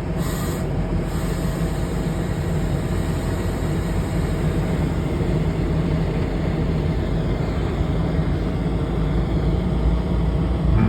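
VRE commuter train's diesel locomotive running steadily at the platform, a low rumble with a short hiss of air in the first second.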